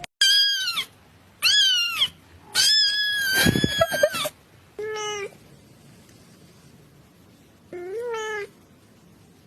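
Domestic cat meowing five times: three high-pitched calls close together, the third longest and roughest, then two shorter, lower meows after pauses.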